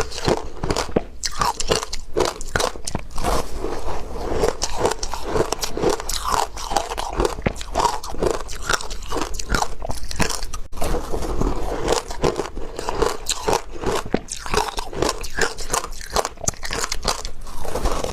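Soft, powdery ice being bitten and chewed close to the microphone: a steady run of crisp crunches, a few each second.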